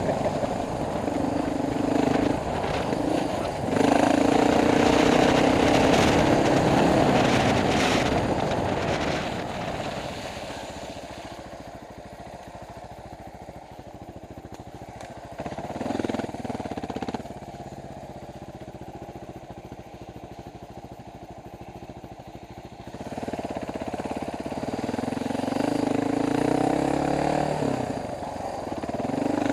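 Dual-sport motorcycle engine heard from a helmet camera, running under throttle for the first ten seconds. It drops to a low, quiet run for about ten seconds with a brief pick-up in the middle, then comes back up again near the end.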